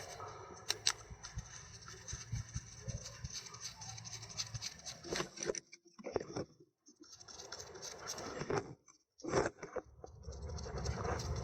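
Faint, irregular clicks, taps and scraping of small parts being handled while position sensors are fitted to a Toyota MMT gear-shift actuator. The sound drops to near silence twice in the middle.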